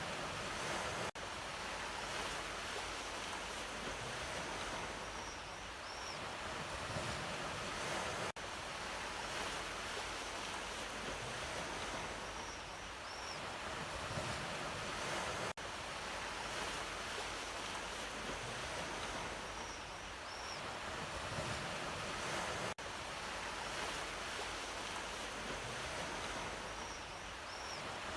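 Sea waves washing in as a steady surf that swells and eases. The recording is a short loop: it drops out briefly about every seven seconds and starts over.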